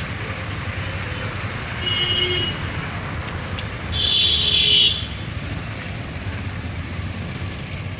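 Steady road traffic rumble with two short horn toots, one about two seconds in and a longer, louder one about four seconds in.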